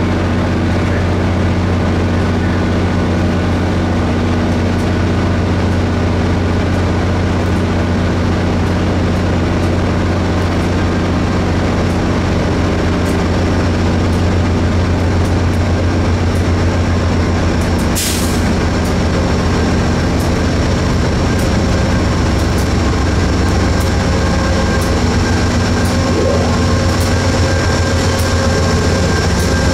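Train running steadily close by, a deep even hum that does not change, with a short sharp hiss about eighteen seconds in.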